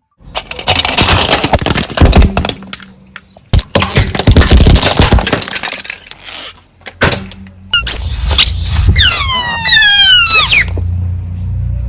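Objects crunching and cracking as a car tyre rolls over them, in two long runs of dense crackling with sharp cracks. Near the end, under a low rumble, comes a run of quick falling squeaks.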